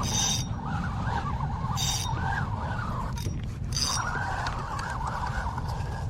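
A fishing reel being wound in, a wavering whine that pauses briefly about three seconds in and then resumes, over a steady low rumble of wind on the microphone.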